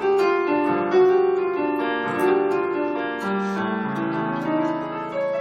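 Instrumental piano interlude between sung verses of a song: sustained chords and a slow melodic line.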